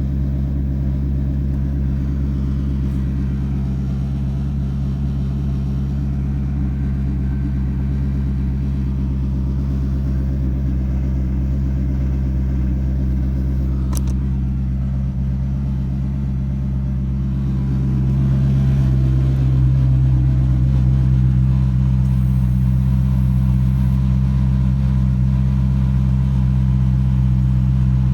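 2006 Maserati engine idling steadily, growing slightly louder about two-thirds of the way through.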